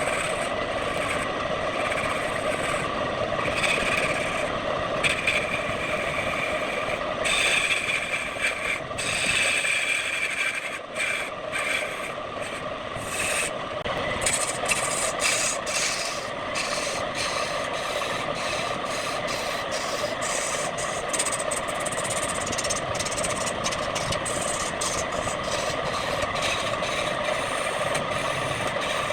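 Wood lathe running with a steady motor whine while a turning tool scrapes against the spinning wood. The scraping is more uneven and broken in the first half.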